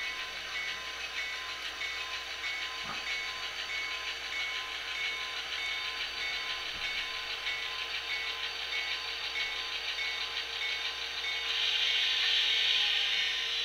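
HO-scale GP40-2 model locomotive's SoundTraxx Tsunami2 sound decoder playing diesel locomotive sound through its small onboard speaker: a steady engine drone with an evenly pulsing tone and hiss. Near the end a louder hiss swells for about two seconds.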